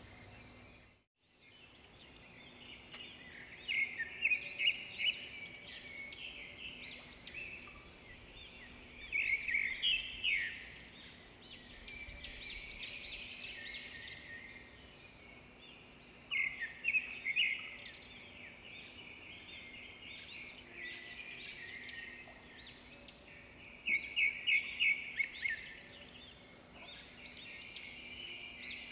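Birds chirping and singing in a garden. A louder run of rapid repeated notes comes roughly every seven seconds, over steady background chatter, with a brief drop-out about a second in.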